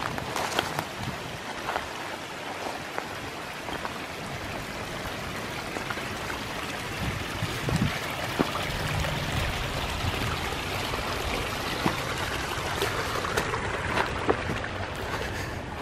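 Steady rush of running water from a stream, a little louder from about halfway in, with occasional light knocks.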